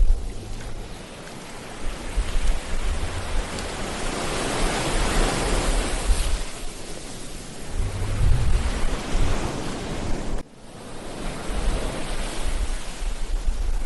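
Ocean waves breaking and washing up a beach, swelling to a peak about halfway through, with wind rumbling on the microphone.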